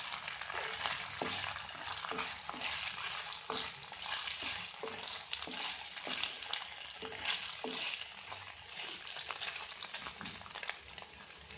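Small onions, carrot sticks and ginger-garlic paste sizzling in hot oil in a non-stick pan while a spatula stirs them, scraping and tapping against the pan every half second or so. The stirring eases off a little near the end.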